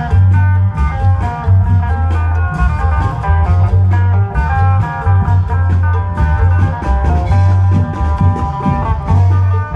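Isan klong yao procession band music: a fast plucked-string melody over heavy, repeated drum beats.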